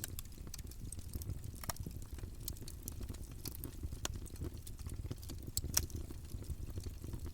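Campfire burning: a low steady rumble of the flames with irregular crackles and sharp pops of burning wood, a few louder snaps among them.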